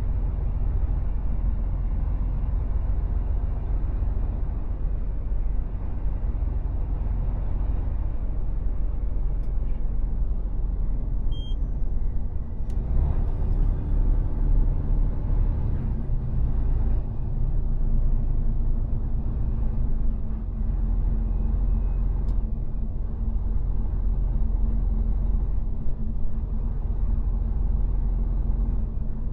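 Mercedes Actros truck on the move: steady low diesel engine drone and road rumble. A short burst of noise about halfway through.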